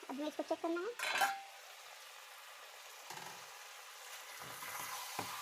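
Chicken pieces and onions sizzling as they fry in a pan, with a sharp knock of a utensil on the pan about a second in and a few softer clatters later.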